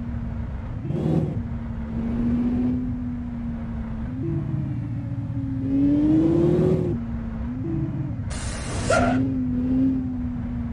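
Heavy truck engine running under load, its pitch rising and falling as it revs up and eases off several times. A short, loud hiss about eight seconds in.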